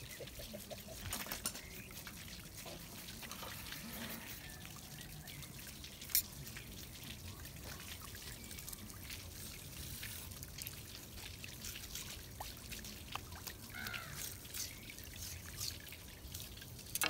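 Water trickling steadily over the filleting surface while a gummy shark is filleted, with scattered small clicks and knocks of knife and hand work and one sharper knock about six seconds in.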